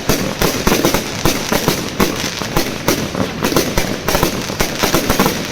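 Fireworks display: a rapid, continuous run of loud bangs and crackles, several a second.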